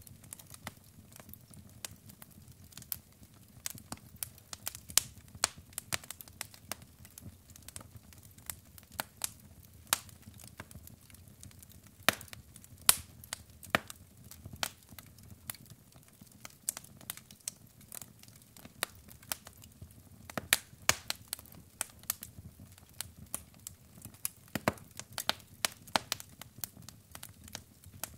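Log fire crackling: irregular sharp pops and snaps, at times several a second, over a faint low rumble of the flames.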